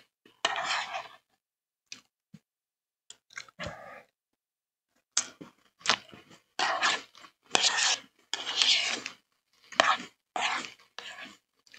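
Close-miked chewing of crunchy Cocoa Pebbles rice cereal: a run of crisp crunches near the start, a few seconds of softer ticks and quiet, then steady chewing crunches for the rest of the time.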